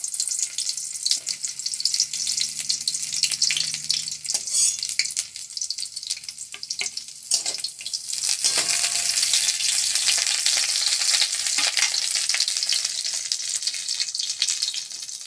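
Drumstick pieces sizzling in hot oil in an aluminium kadai, with a metal spatula clicking and scraping against the pan as they are stirred. The sizzle gets louder about halfway through.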